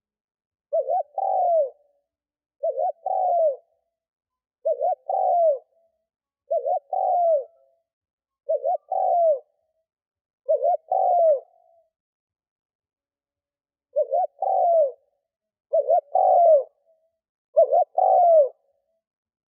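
Spotted dove cooing: a repeated phrase of two short notes and a longer falling note, about every two seconds, nine times, with a longer pause near the middle. It is the decoy bird's provoking coo, used to draw in wild doves.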